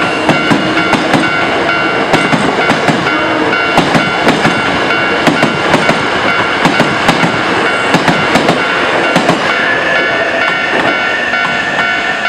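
A Hankyu Railway electric train running on the rails, its wheels clicking sharply over rail joints several times a second above a steady rumble. A steady high whine runs throughout, and a second tone joins near the end.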